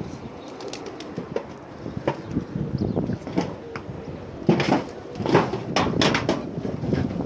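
Homing pigeons stirring in their loft: a run of sharp clatters and flaps, loudest and most frequent in the second half, over a low rumble of wind on the microphone.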